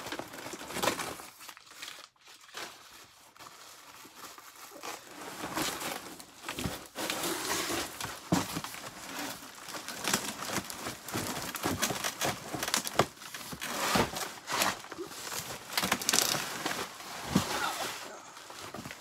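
Newspaper packing being crumpled, rustled and pulled out of a cardboard box, as a run of irregular crinkling and crackling.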